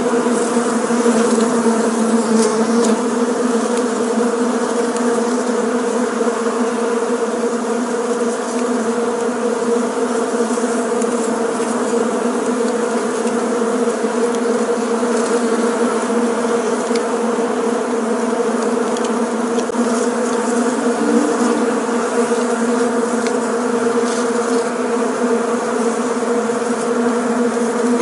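Honeybees buzzing in flight: a dense, steady drone of many wings at one even pitch, unbroken.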